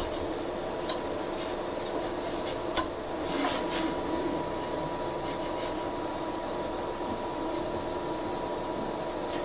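Steady hum of a powered-on Geeetech A20 3D printer's fans and electronics. A few light clicks and a brief rustle of hands working at the printer come in the first few seconds.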